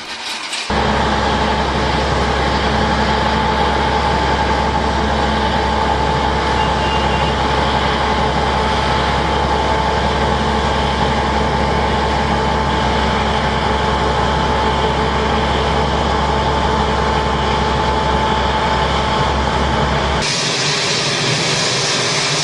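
Loud, steady engine noise with a constant whine and a low hum. It starts abruptly just under a second in and turns hissier near the end.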